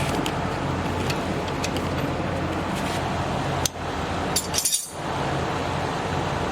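A steady low shop hum with a few sharp metallic clinks, a short cluster of them about four and a half seconds in: hand tools knocking against steel suspension parts while the new tie rod end's nylock nut is being fitted.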